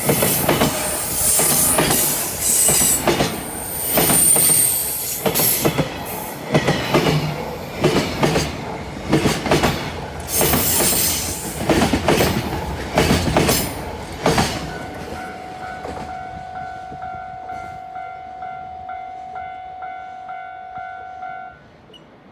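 Freight train wagons rolling past, wheels clattering irregularly over rail joints with high squeal. The clatter fades after about fourteen seconds, leaving a steady ringing tone that pulses a little under twice a second and cuts off near the end.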